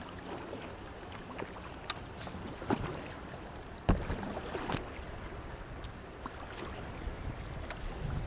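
Kayak in turbulent river water: a steady rush of water with splashes and scattered knocks, the loudest a sharp knock about four seconds in.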